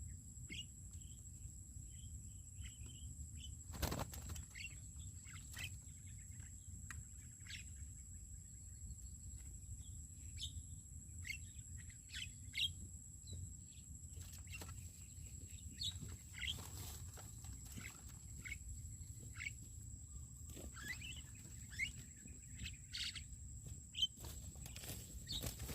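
Birds chirping in short, scattered calls over a steady high-pitched whine, with a single sharp knock about four seconds in.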